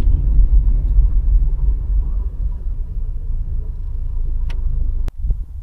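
Loud, uneven low rumble of wind buffeting the microphone on the move, cut off by a sharp click about five seconds in.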